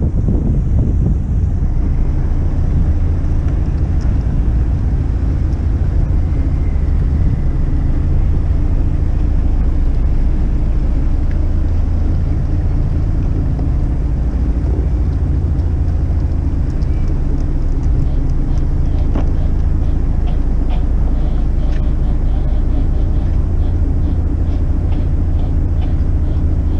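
McKinna 65 motor yacht's engines running steadily under way, a constant low drone. Over the last several seconds a run of light ticks sounds over the drone.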